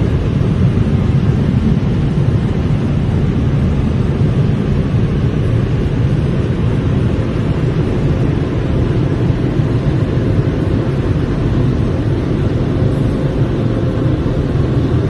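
Car wash air-dryer blowers running steadily with an even, loud rushing roar as they blow the car dry.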